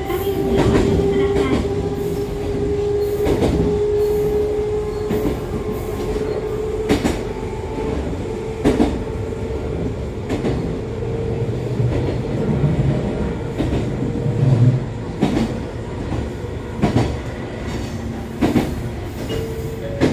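Electric railcar's MT54 DC traction motor and gearing whining from inside the car, the whine rising slowly in pitch as the train gathers speed and fading out about halfway through. The wheels click over rail joints roughly every second and a half, over a steady running rumble.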